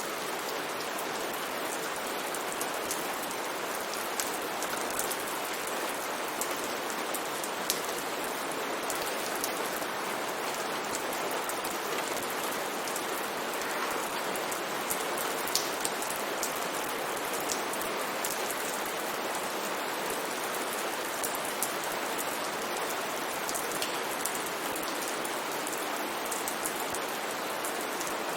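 Steady rain shower: an even hiss of rainfall with many sharp individual drops ticking on a surface, scattered throughout.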